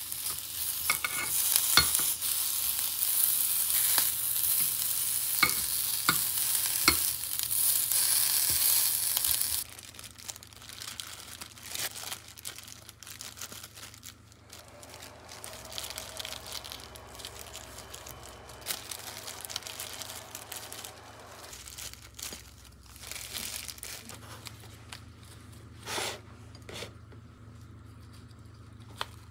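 Rice balls sizzling in oil in a square frying pan, with a few sharp clicks of metal tongs turning them. After about ten seconds the sizzling stops abruptly, giving way to quieter rustling and handling sounds.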